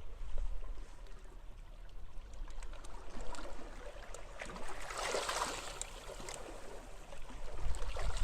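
Sea waves washing on a beach: one wash swells and fades about five seconds in with fizzing crackles. Low wind rumble on the microphone dies down at the start and comes back near the end.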